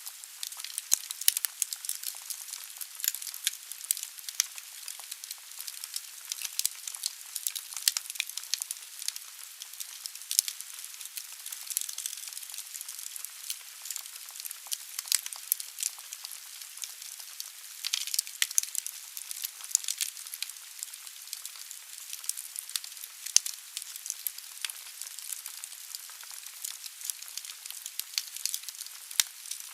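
Wood fire burning in a fireplace: logs crackling with frequent sharp pops over a steady hiss.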